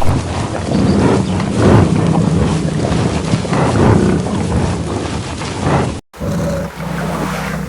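Vocal sounds from a large wild animal, cut off briefly about six seconds in, after which a steadier wind-like noise follows.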